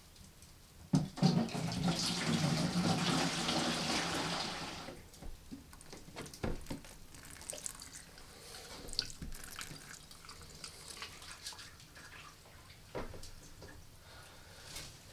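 Water pouring into a pot or container for about four seconds, starting about a second in and stopping abruptly, followed by scattered small clicks and knocks.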